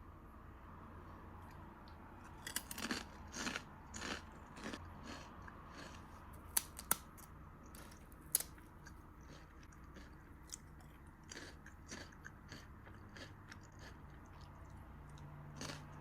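Potato chips being bitten and chewed close to the microphone: a run of sharp, irregular crunches starting a couple of seconds in, thickest early on and thinning out towards the end.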